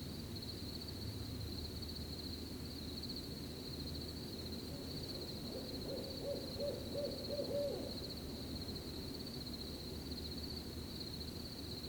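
A cricket chirps steadily in a high, fast pulsing trill. About six seconds in, an owl gives a quick run of about five or six short hoots over a low steady rumble.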